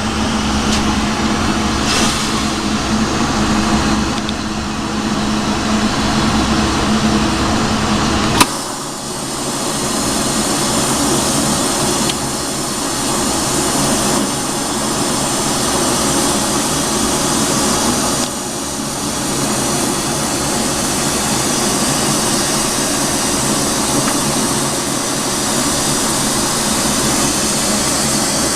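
Lampworking torch flame running steadily with a loud hiss while borosilicate glass is kept hot. About eight seconds in there is a sharp click, and a low hum underneath stops.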